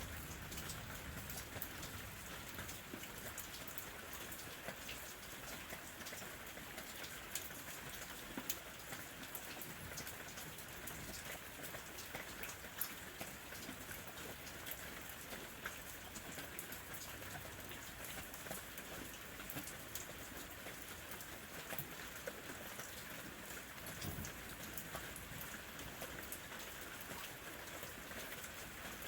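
Gentle rain falling steadily, with many small drop ticks scattered through it.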